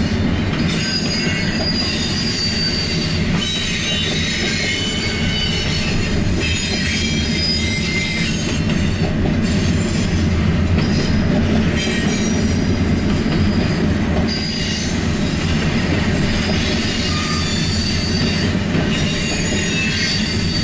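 Freight train cars rolling past close by: a steady heavy rumble of wheels on rail, with high-pitched wheel squeal ringing over it.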